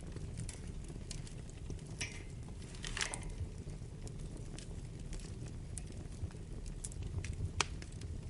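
Wood fire burning in a fireplace: a steady low rumble with scattered crackles and pops. There are short hissing flares about two and three seconds in, and a sharp pop near the end.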